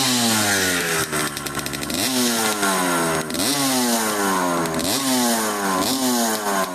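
1989 Kawasaki KX125 two-stroke single-cylinder dirt bike engine being revved in short throttle blips, about once a second, each rev rising sharply and then falling back toward idle.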